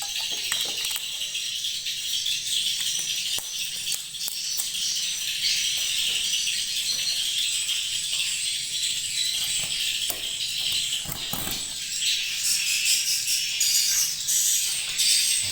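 Many edible-nest swiftlets chirping and clicking without pause, a dense high twittering laced with rapid clicks.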